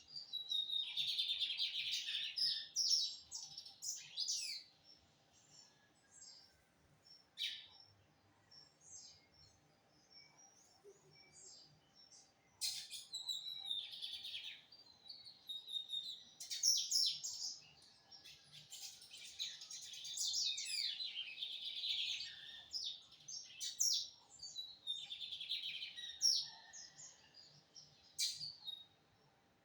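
A bigodinho (lined seedeater) singing in repeated bouts of rapid, high chirps and trills, each a few seconds long with short pauses between them.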